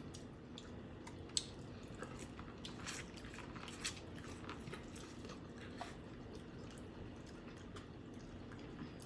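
Faint eating sounds from a sauce-covered seafood boil: chewing and wet squishing, with a few short sharp clicks, the loudest about a second and a half in.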